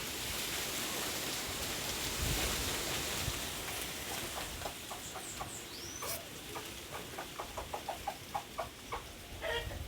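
Fowl clucking in a quick run of short calls through the second half, with small birds chirping high and thin and one rising whistle. A rushing noise fills the first few seconds.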